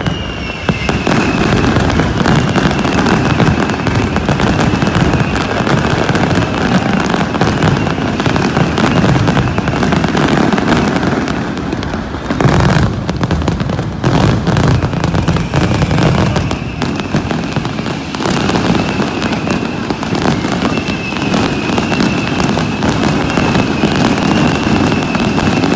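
Fireworks display in full barrage: a dense, continuous run of crackling bangs, with a faint wavering high whistle running through it.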